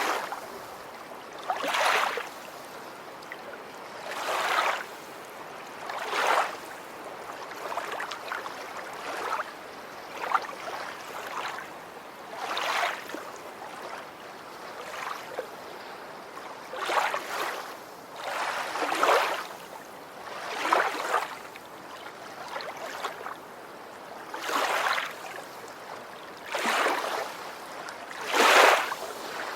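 Water washing or splashing in repeated swells, one about every two seconds, each rising and falling within about a second, over a steady hiss; the last swells, near the end, are the loudest.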